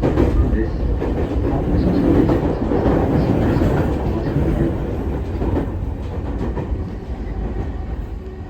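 Electric commuter train heard from inside the passenger car: wheels rumbling and clacking on the rails as it slows toward a station. The noise eases off gradually over the last few seconds.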